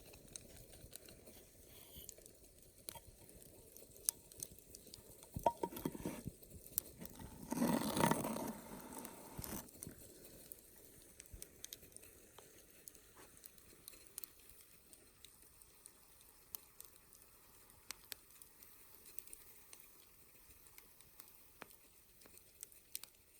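Campfire crackling and popping with irregular sharp snaps over a low hiss, and a louder rushing swell lasting a second or two about eight seconds in.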